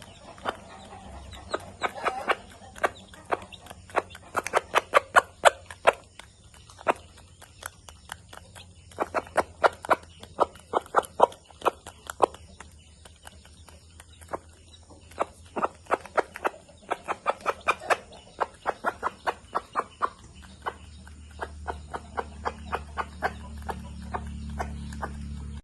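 Chickens clucking in quick runs of short, sharp calls, in bursts of several a second with pauses between the runs.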